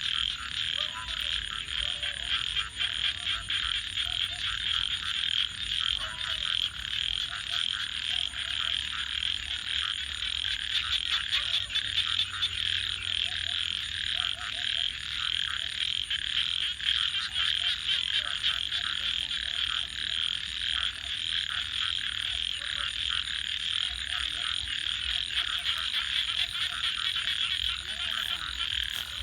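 Night chorus of many frogs calling at once: a dense, steady high trilling with short, lower croaks scattered through it. A wood fire crackles under it.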